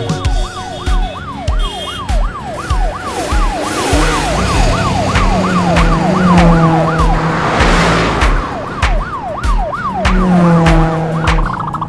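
Cartoon police car siren going in quick rising sweeps, about three a second, over background music with a steady drum beat. A lower engine-like drone comes in partway through, holds for a few seconds, and returns briefly near the end.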